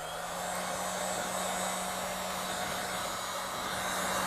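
Heat gun running steadily just after being switched on: a rush of blown air over a low, even motor hum, its fan having just spun up to speed.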